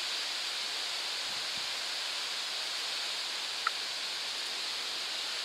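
Steady even hiss of storm wind through trees and leaves, with no gusting rumble and no thunder. A faint short chirp comes about two-thirds of the way through.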